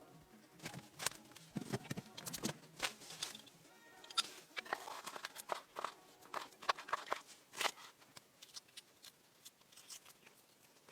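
Irregular crackling, clicking and rustling handling sounds, quick sharp ticks at uneven spacing, with a brief low creak about two seconds in.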